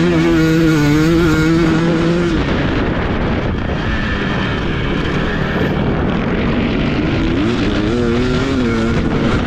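TC250 motocross bike's engine revving hard, its pitch wavering, for about two seconds, then easing off under an even rushing noise, and climbing in revs again near the end.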